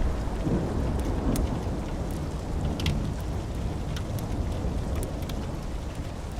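Rolling thunder rumbling low and slowly dying away, over steady rain. Scattered sharp pops, like a wood fire crackling, sound every second or so.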